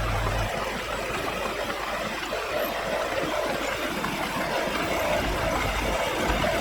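Heavy construction machine's diesel engine running steadily, with a low hum that drops away about half a second in.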